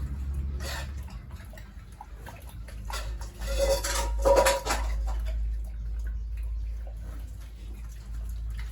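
Scattered metal clattering and knocks over a steady low hum, with a louder flurry about four seconds in.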